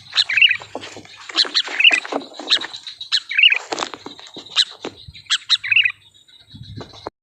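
Sooty-headed bulbul (kutilang) calling in short, bubbly chirps repeated about once a second, among sharp clicks and rustling.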